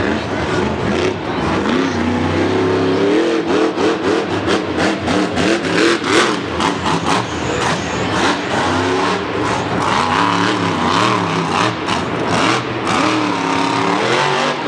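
Monster truck's supercharged V8 engine revving hard, its pitch rising and falling again and again, with many sharp cracks and bangs over it.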